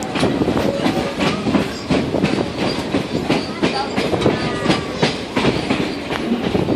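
Great Smoky Mountains Railroad passenger train rolling along the track, its wheels clattering over the rail joints in a steady rumble with many irregular sharp clicks.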